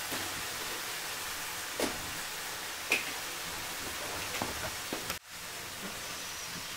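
Chayote frying in a wok over a wood fire: a steady sizzling hiss with a few light clicks, breaking off for an instant about five seconds in.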